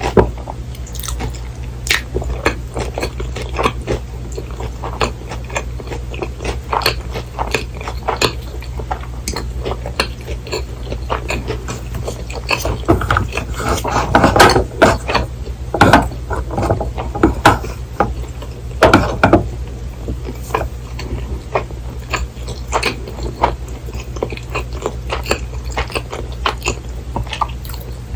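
Close-miked chewing and biting of a crispy fried cheese pork cutlet with rice: a continuous run of small crunches and wet mouth clicks, denser and louder for a stretch about halfway through, over a steady low hum.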